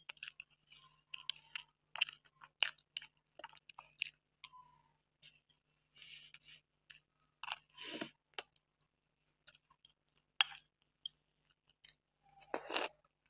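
Close-up chewing and mouth sounds of someone eating soft cream-topped butterscotch cake from a fork: irregular short clicks and wet bursts, with a louder burst near the end.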